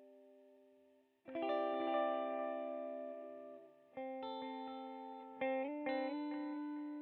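SX electric guitar played through a Saphue digital delay pedal: a ringing tail fades out, a chord is struck about a second in and rings on, then new picked notes come in from about four seconds in, each sustaining and fading under the delay.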